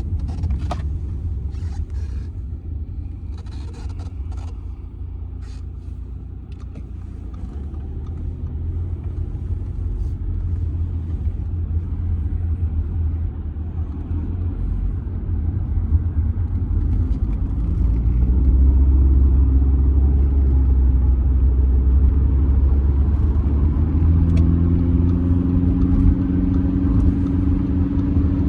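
Cabin sound of an Audi A6 C6 2.0 TDI four-cylinder diesel on the move: a steady low road and tyre rumble, with several sharp knocks in the first few seconds from bumps in the road. From about halfway the drone grows louder, and near the end a low engine note rises as the car accelerates.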